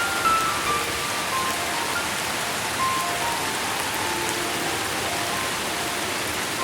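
Steady, even rainfall with a slow melody of soft single notes drifting over it.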